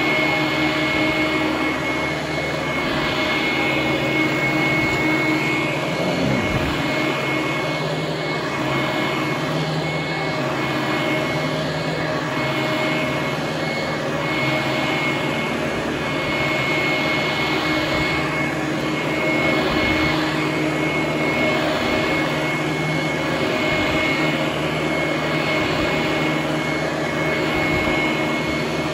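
Vintage Hoover Conquest direct-air commercial upright vacuum cleaner running steadily on carpet, its motor-driven fan giving a loud rush of air with a constant high whine.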